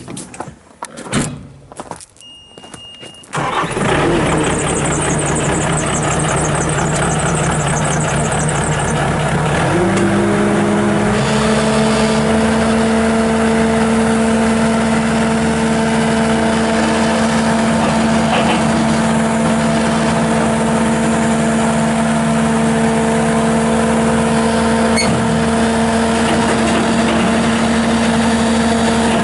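A Bobcat S650 skid steer's Kubota V3307 four-cylinder diesel starts after a few clicks and a short beep, then idles steadily. About ten seconds in it is throttled up and runs steadily at a higher engine speed.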